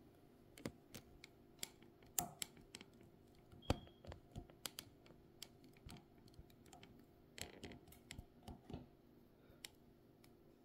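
Faint, irregular light clicks and taps, a few every second, from small hard objects being handled while working over a sewing machine.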